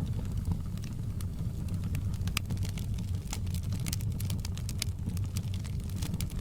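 Fireplace crackling: a steady low rumble of burning wood with frequent sharp crackles and pops, thicker from about two seconds in.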